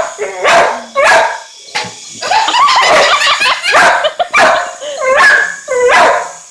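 A dog barking excitedly at a flying helicopter, a rapid string of barks about every half second that crowds into a quick run of yips about two seconds in.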